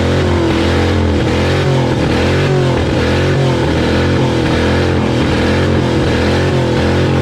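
Ford Crown Victoria's V8 engine running hard at high revs, its pitch rising and falling in a steady repeating surge about once a second.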